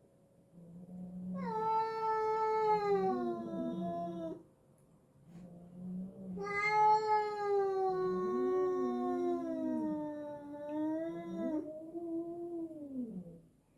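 Domestic cats yowling during a hostile standoff. There are two long, drawn-out yowls that slowly slide down in pitch, the second lasting about five seconds. Lower, wavering growls sound beneath and between them.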